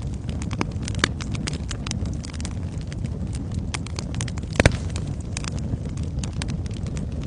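Wood fire in a fireplace crackling: many irregular sharp snaps over the low, steady rumble of the flames, with one louder pop a little past halfway.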